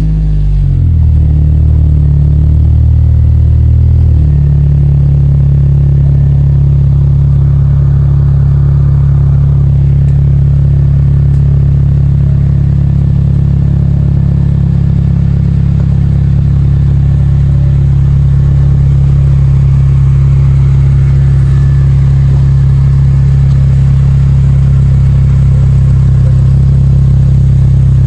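An 8th-generation Honda Civic Si's four-cylinder engine through a J2 Engineering cat-back exhaust, driving under way. Its note shifts during the first four seconds, then settles into a steady, loud, low drone at constant revs while cruising in sixth gear.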